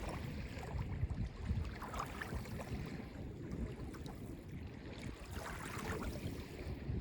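Small Lake Ontario waves lapping and washing on the beach, with brighter splashes about two seconds in and again near six seconds.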